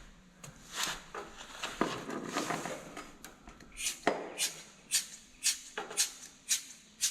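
Light clattering and knocking of small hard objects, then from about halfway through an even shaker-like beat of about two crisp strokes a second, as in background music.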